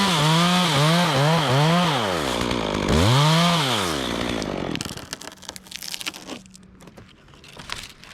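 Two-stroke chainsaw revved in a series of quick bursts, then once more about three seconds in, before dropping away. Followed by scattered light clicks and rustling.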